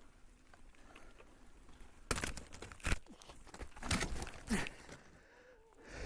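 Mountain bike's rear hub failing under hard pedalling on a climb: a sudden clatter about two seconds in, a sharp crack, then more knocks and scuffs as the bike stops.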